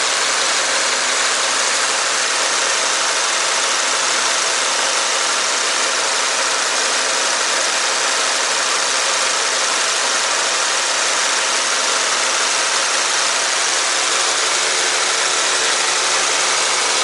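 Honda Accord's 10PA17C air-conditioning compressor running with the engine idling, a steady, loud mechanical noise from inside the compressor. The compressor is worn loose inside, the same fault that leaves it pumping weakly.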